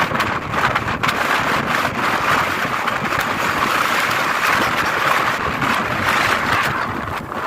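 Strong wind rushing steadily, with crackling buffets on the microphone.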